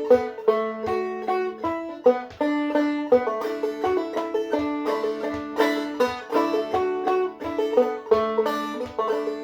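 Clawhammer banjo in double D tuning (D A D E, fifth string at A) playing an old-time tune at a steady pace, quick plucked notes over ringing drone strings.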